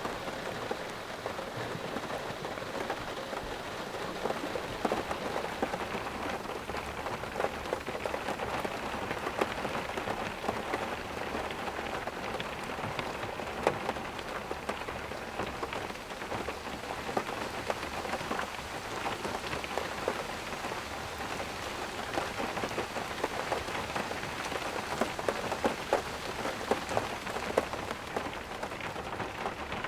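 Heavy rain falling steadily, with a dense patter of individual drops striking a nearby surface.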